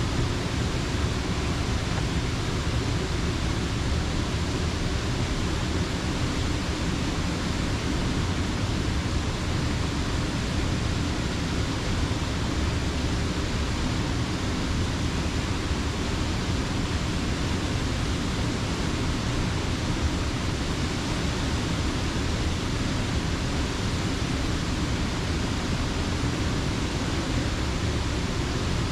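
Creek water rushing over a mill dam: a steady, unbroken rush with a deep low end and no separate events.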